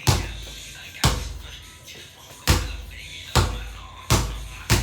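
A basketball bouncing hard on a court, six bounces at uneven intervals, each with a low ringing boom.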